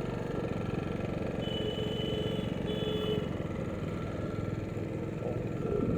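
Motorcycle engine running steadily while riding, with road and wind noise; two short steady tones sound about a second and a half in.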